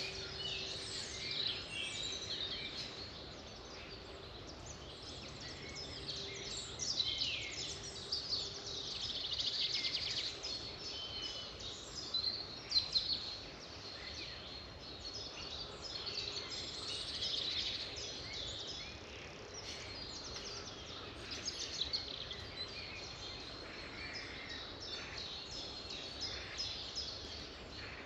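Several songbirds singing at once, a dense run of quick, overlapping chirps and trills over a faint steady background hiss.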